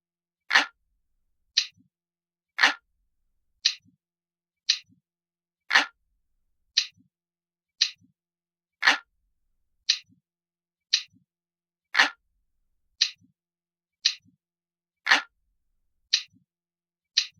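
Ticking clock sound effect of a traditional analog clock, steady at about one tick a second, with a deeper, fuller tick every few beats.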